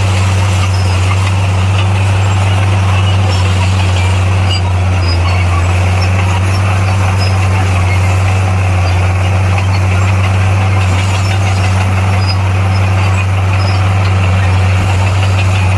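Heavy construction machine's diesel engine running at a steady speed, a constant low drone with no revving or change.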